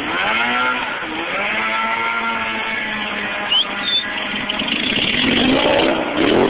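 Stunt motorcycle engine revving up and down several times, its pitch rising and falling in repeated swells, with a couple of short sharp clicks midway. It is heard through a cell phone's thin, band-limited sound.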